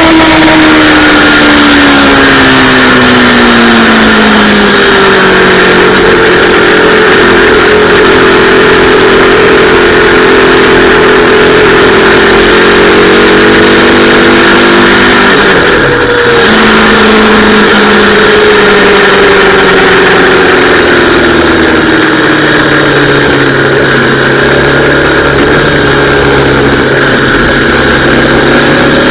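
Yamaha R3's parallel-twin engine heard from on the bike, with revs falling as it slows, then running steadily. About halfway through, the revs dip sharply and come straight back. The engine then slows again to low revs, under a steady rush of wind noise.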